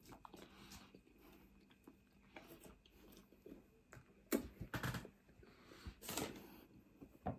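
A person chewing chip-shop chips with soft wet mouth clicks, and a few louder smacks and finger-licking noises past the middle.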